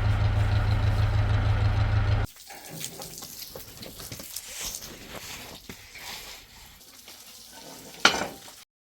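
A heavy engine running steadily with a deep hum, cutting off abruptly about two seconds in. Quieter irregular rustling and small clicks follow, with one sharp knock near the end.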